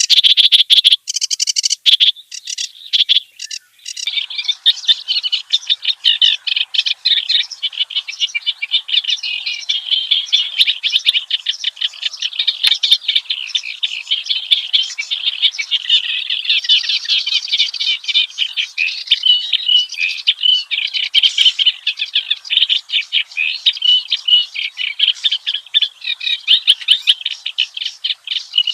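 Kerak basi (reed warbler) singing a long, rapid, unbroken chattering song of harsh, croaky and clear notes mixed together, after a more broken opening of a few seconds.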